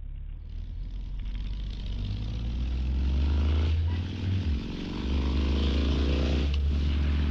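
Motorcycle engine accelerating, its pitch rising twice with short breaks for gear changes near the middle and near the end, under wind noise on the bike-mounted microphone.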